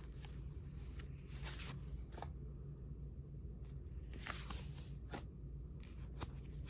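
Old paper envelopes and postcards being handled and slid over one another: a string of short, soft paper rustles over a low steady room hum.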